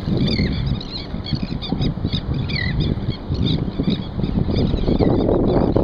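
Many short, high calls from seabirds, over a loud low rumble of wind on the microphone and water around the kayak.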